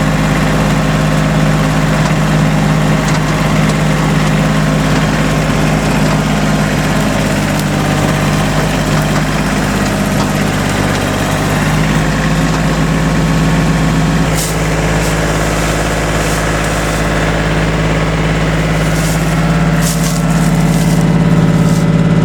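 A vehicle engine running steadily close by, with a small change in its tone about fourteen seconds in.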